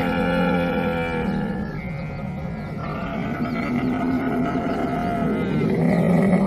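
Camel calling: long, drawn-out calls. One trails off about a second and a half in, and another builds from about three seconds and is loudest near the end.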